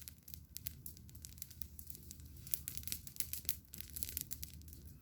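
Garden bonfire crackling, with irregular sharp pops and snaps.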